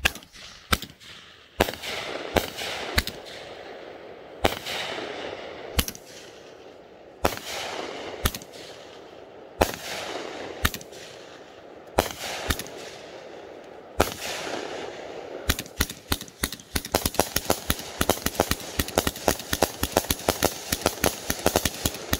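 A 500-gram, 42-shot consumer fireworks cake firing. Single shots come every second or so, each a sharp bang followed by a hissing, crackling burst. From about fifteen seconds in, the cracks come rapid-fire, several a second.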